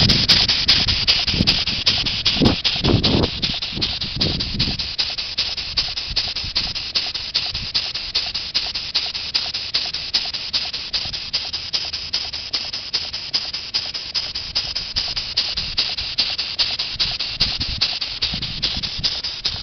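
Small handmade model steam engine running steadily, giving a fast, even hissing chuff of about five exhaust puffs a second, with a few low thumps in the first few seconds. It runs despite its badly bent crankshaft.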